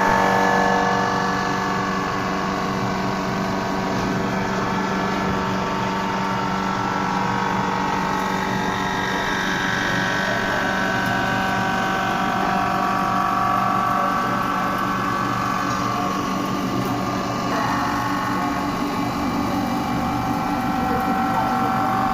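Cylinder head resurfacing machine running steadily while it faces the engine head, a machine whine of several steady tones that shift slightly in pitch partway through.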